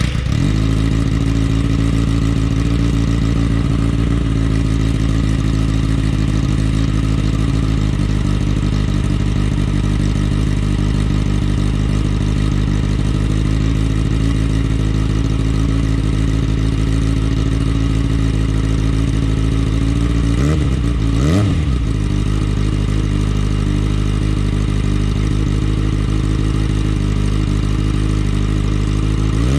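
2014 Kawasaki ZX-6R's inline-four engine idling steadily through an Akrapovic titanium slip-on muffler. There is a quick throttle blip, rising and falling, about two-thirds of the way in, and another right at the end.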